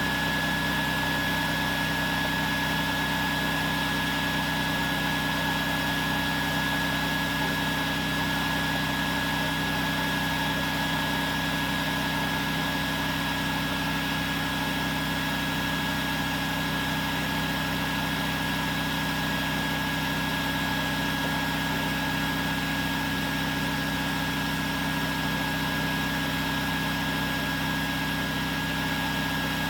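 Portable generator and electric bee vacuum running together in a steady, unchanging drone with a high, steady whine, as stray honeybees are vacuumed up.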